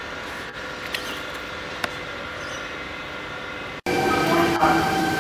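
A steady background hum with a few faint clicks. About four seconds in, the sound cuts abruptly and a Sydney Trains double-deck electric train passes close below, louder and carrying several steady tones.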